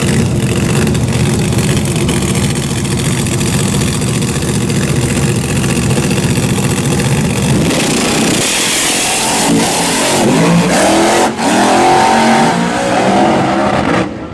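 Loud drag racing engines running at a steady low rumble. From about eight seconds in, the engine pitch climbs in a series of rising sweeps as they accelerate hard.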